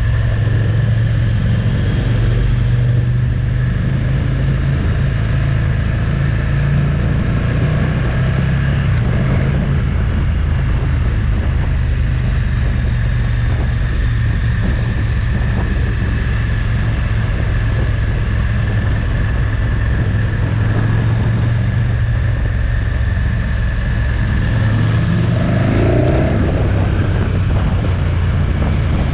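Motorcycle engine running steadily at cruising speed, heard from on the bike with wind and road noise. Near the end a short rising tone briefly joins in.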